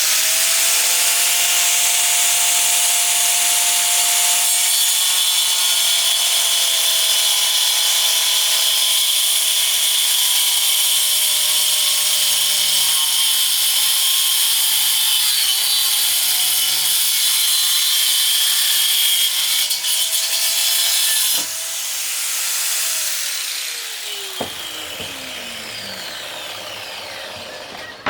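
Power saw cutting through wood: a loud, steady cutting noise over the motor's whine. About three-quarters of the way in the cut stops, and the motor's whine falls in pitch as it runs down.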